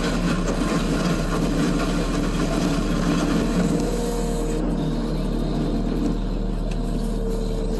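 Case SV280 skid steer's diesel engine running steadily under load while the land plane works the driveway. A rough scraping noise runs over it and drops away about halfway through.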